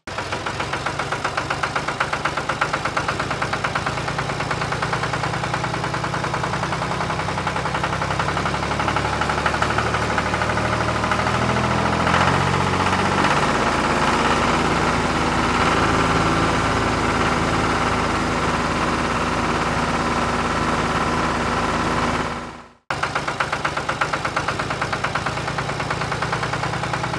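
Tractor engine running with a steady, rapid chugging beat. It cuts off abruptly about 23 seconds in and starts again straight away.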